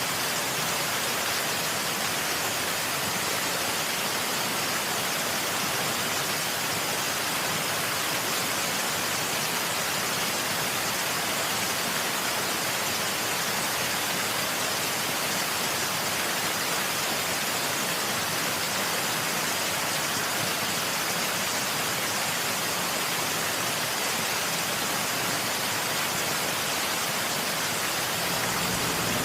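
Steady rushing noise, even throughout, like heavy falling water.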